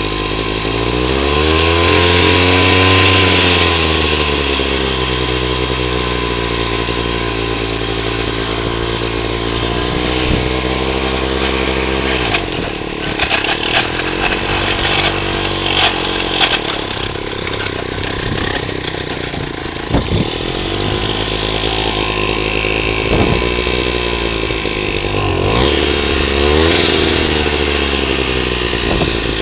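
Agria motor hoe's Sachs Stamo 98 two-stroke engine running, revved up and back down a little after the start and again near the end. A stretch of irregular clicks and knocks comes in the middle, over the engine's sound.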